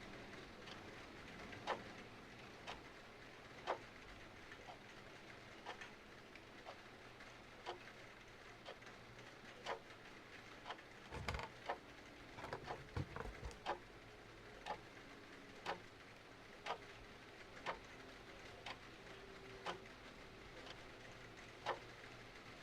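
Clock ticking about once a second over a steady hiss of rain, with a short burst of fireplace crackles and pops around the middle.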